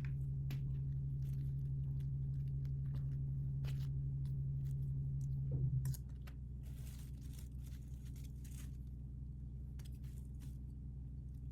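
Faint crinkling and clicking of plastic packaging being handled and opened, scattered short crackles over a steady low electrical hum. The hum drops in level about halfway through.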